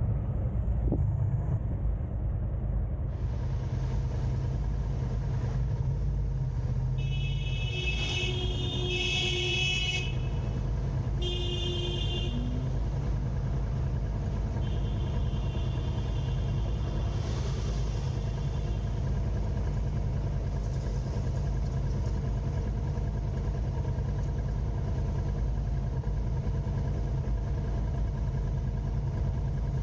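Steady low road and engine rumble of a car driving in city traffic. A vehicle horn honks in a few short blasts between about seven and twelve seconds in.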